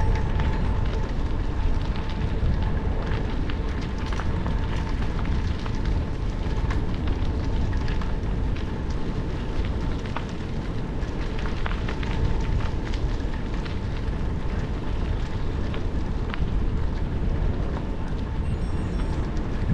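Bicycle tyres rolling over gravel: a steady low rumble scattered with many small crackling pops of stones, picked up by a helmet-mounted camera microphone.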